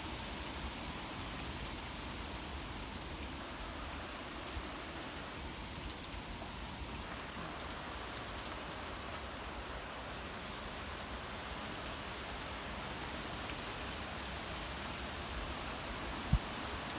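Hail falling, a steady hiss throughout, with a single sharp knock near the end.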